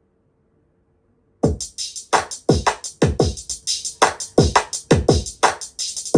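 Electronic beat played back through a portable Bluetooth speaker: after a brief silence, it comes in about a second and a half in with punchy kick drums that drop in pitch and crisp high percussion, a few hits a second.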